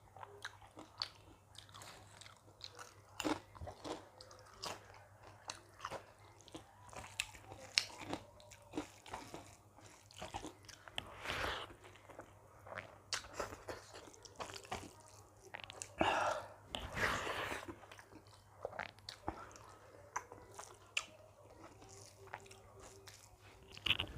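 Close-miked chewing and biting of a mouthful of dal, rice and karela (bitter gourd) sabzi, with many short wet mouth clicks and a few longer louder chewing sounds.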